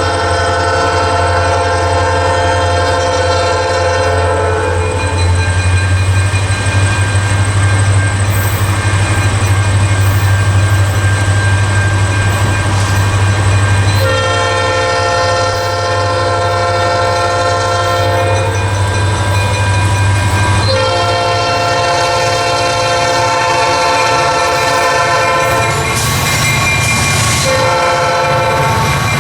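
Diesel freight locomotive's air horn sounding a chord in several long blasts and a short one, the grade-crossing signal, over the locomotive's steady low engine drone.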